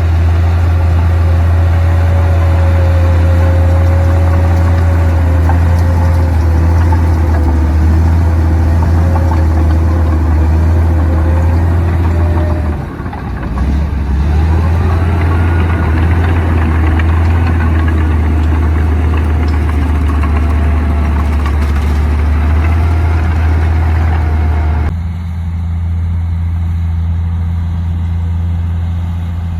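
Komatsu D58P bulldozer's diesel engine running steadily with a deep hum and a whine over it. About 13 seconds in it dips briefly, then picks back up with a rising whine. The sound changes abruptly and turns duller a few seconds before the end.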